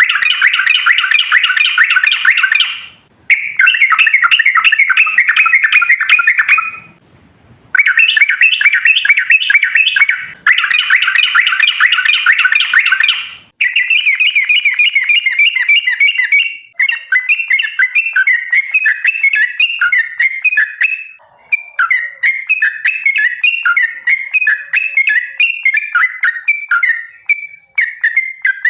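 Yellow-vented bulbul (trucukan) song: long, rapid bubbling phrases of about three seconds each, broken by short pauses. From about halfway through the song turns choppier, with quicker separate notes and gaps between them.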